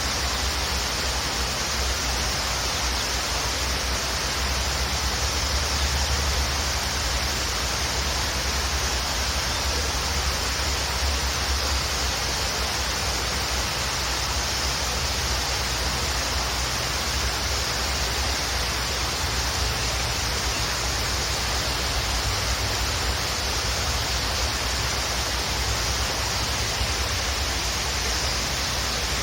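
Waterfall rushing steadily, a constant hiss of falling water over a deep rumble.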